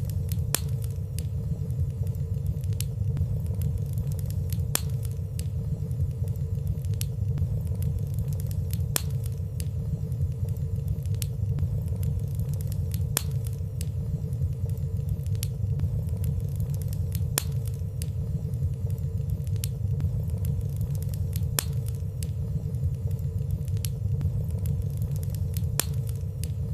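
Fireplace fire burning, a steady low rumble of flames with light, irregular crackling ticks about once a second.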